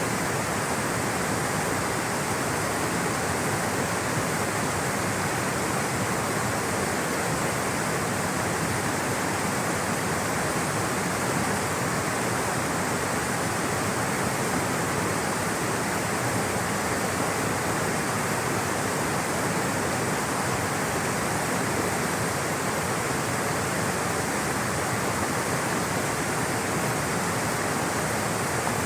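Rushing water flowing in a steady, even torrent with no pauses or changes.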